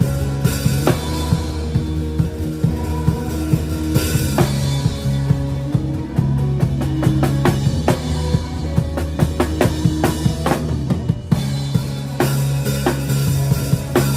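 Acoustic drum kit played live in a band, with kick, snare and cymbal hits over sustained bass and chord notes. There are cymbal crashes about half a second in and about four seconds in.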